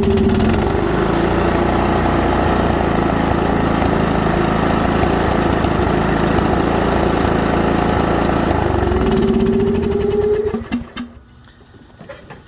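Troy-Bilt Pony riding mower's Briggs & Stratton engine running steadily with no surging, its carburetor mixture and idle screw freshly adjusted. The engine note drops about half a second in, holds even, climbs again near the end, then stops abruptly about eleven seconds in.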